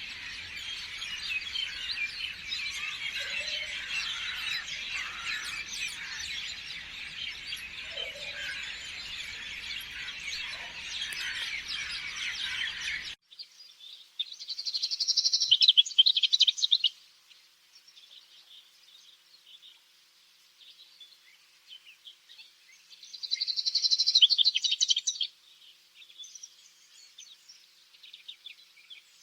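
Songbirds singing: a dense chorus of many overlapping chirps that cuts off abruptly about halfway through, followed by two loud bursts of rapid trilled song with sparse quieter chirps between them.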